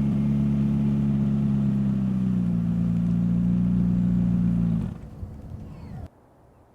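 McLaren 570S twin-turbo V8 running at steady revs through its exhaust, the pitch easing down slightly about two seconds in. The sound drops away suddenly near the end, leaving near silence.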